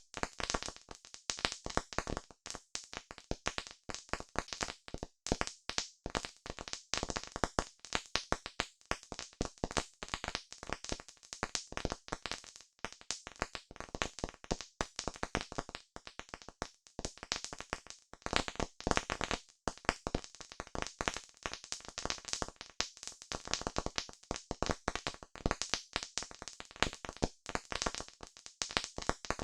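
Campfire crackling: a dense, continuous run of sharp pops and snaps from burning wood.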